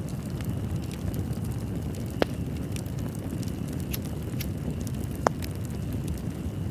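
Wood fire crackling in a fireplace: a steady low rumble of the flames with small scattered crackles, and two sharper pops about two seconds in and again about five seconds in.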